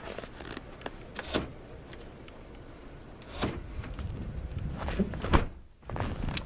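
Ford F-150 pickup idling cold shortly after a cold start, a low rumble with scattered clicks of handling and a single sharp knock a little past five seconds in.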